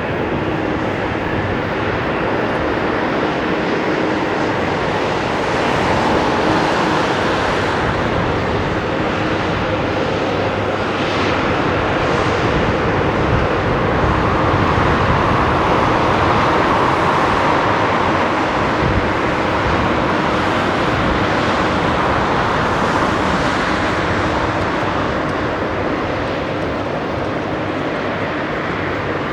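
Jet engines of a Boeing 777F freighter, its GE90 turbofans, running with a steady roar that swells a little in the middle.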